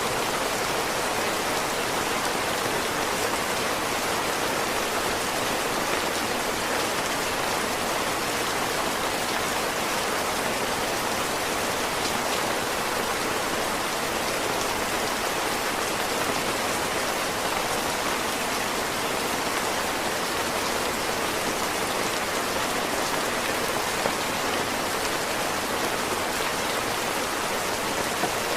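Heavy rain falling steadily, a dense even hiss of countless drops, with a couple of louder single drop hits near the end.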